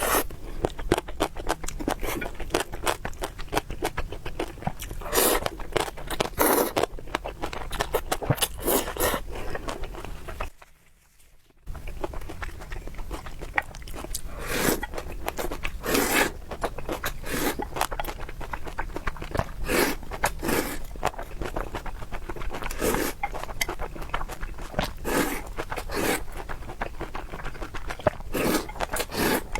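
Close-miked eating sounds: wet chewing and smacking with frequent short clicks and louder bursts every second or two, broken by about a second of silence around eleven seconds in.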